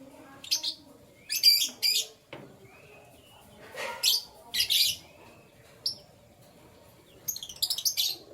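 Pet canaries chirping: short, high chirps in scattered clusters of a few notes each, with brief gaps between.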